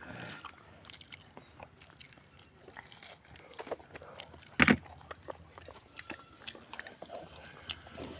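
A person biting and chewing crisp food close to the microphone: small, irregular crunches and mouth clicks, with one louder sharp crunch about halfway through.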